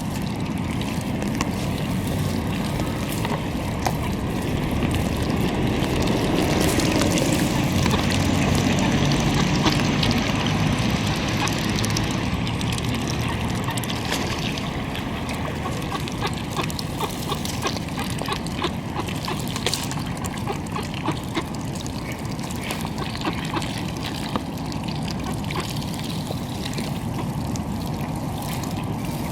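Steady outdoor water-and-wind noise beside a pond, swelling with a low rumble in the first half, with scattered light clicks through the second half.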